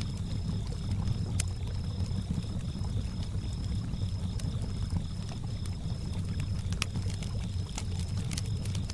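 Lake water lapping and sloshing, the loudest sound, with a campfire crackling in scattered sharp pops that come thicker near the end. Crickets chirp steadily in an even, pulsing high trill.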